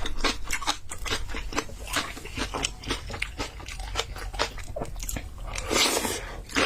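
Close-miked mouth sounds of a person eating spicy noodles: wet chewing and smacking in quick, irregular clicks, with one longer slurp near the end.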